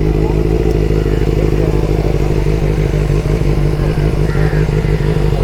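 Motorcycle engine idling steadily, with an even, unchanging low hum.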